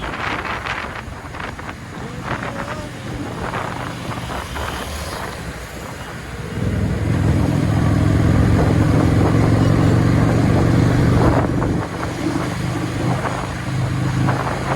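Road and wind noise of a motorcycle ride in traffic; about six and a half seconds in, a louder, steady engine drone comes in and holds for most of the rest.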